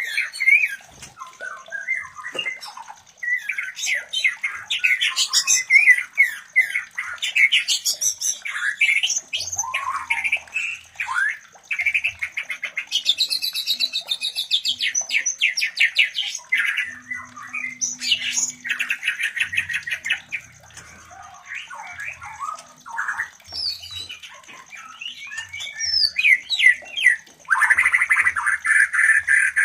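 White-rumped shamas calling during mating: a fast jumble of whistled notes and trills broken by long harsh, buzzy rattles, the loudest near the end. A faint steady high-pitched tone runs underneath.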